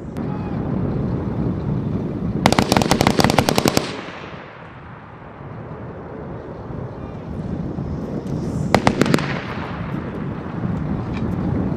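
Machine gun firing two bursts: a long burst of about a dozen rounds a couple of seconds in, and a short burst of a few rounds about three-quarters of the way through, over a steady low rumble.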